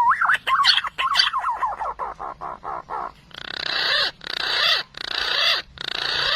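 Recorded green pigeon (punai) calls played as a hunting lure: a quick run of warbling whistles that slide and fall in pitch, then four harsh, rasping calls of under a second each.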